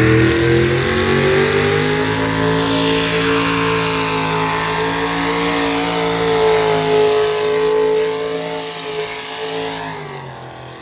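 Engine of a truck or tractor making a pull, running hard at high revs under load: its pitch climbs over the first couple of seconds and then holds steady, and the sound dies away over the last few seconds.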